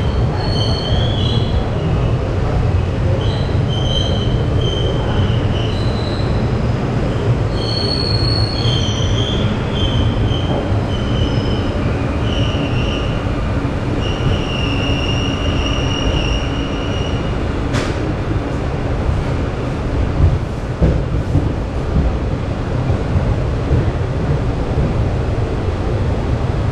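Moving express train with ICF passenger coaches: a steady rumble of wheels on the track, with high-pitched wheel squeal coming and going through the first two-thirds or so, the squeal of wheel flanges grinding against the rail. A sharp click comes near the two-thirds mark, and a few louder knocks follow shortly after.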